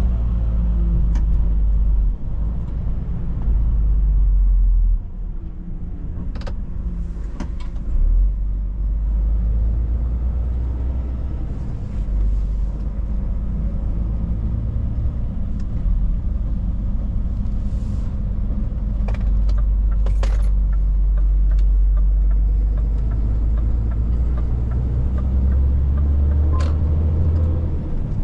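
Scania S 500 truck driving, a steady low drone of engine and road noise with a few sharp clicks and rattles here and there.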